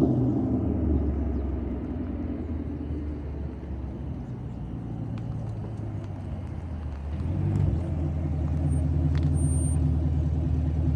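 Chevrolet Camaro SS's 6.2-litre V8 running through an AWE Track Edition axle-back exhaust with a deep, steady drone. It eases off over the first few seconds after a rev, then grows louder again about seven seconds in and holds.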